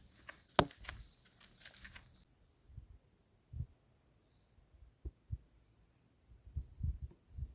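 Steady high-pitched insect chorus, with a sharp click about half a second in, a busier patch of small clicks in the first two seconds, and a few soft low thumps later on.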